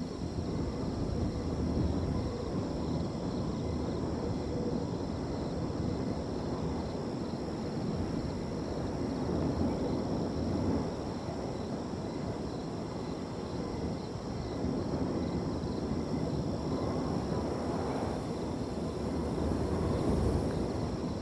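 Wind blowing across an open field, a steady low rushing noise that swells and eases a little, with crickets trilling continuously high above it.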